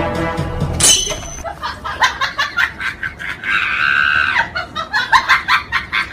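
People laughing in quick repeated bursts, with a high drawn-out squeal a little past three and a half seconds in; a short high-pitched sound comes about a second in.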